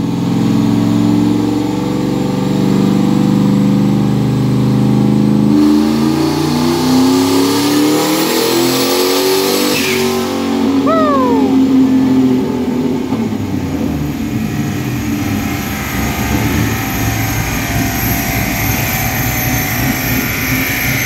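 Turbocharged 351 Windsor V8 of a 1995 Mustang GT making a pull on a chassis dyno. It runs steadily at part throttle, then about five seconds in goes to full throttle with revs climbing for about four seconds. At about ten seconds in it lifts off, with a whine falling away, and keeps running as the rollers coast down.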